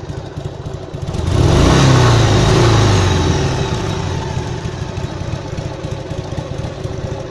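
Harley-Davidson XLH 883 Sportster's air-cooled V-twin idling, revved once about a second in and held up for a couple of seconds before dropping back to idle.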